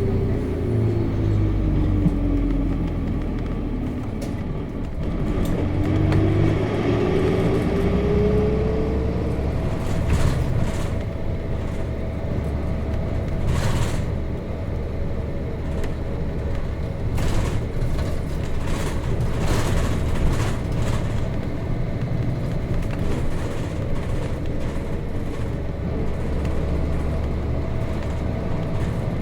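Nissan Diesel KC-RM211GSN bus with its FE6 inline-six diesel heard from inside while running: the engine note drops over the first few seconds, then climbs steadily for about five seconds as the bus pulls away, and settles into a steady cruise with some brief body rattles.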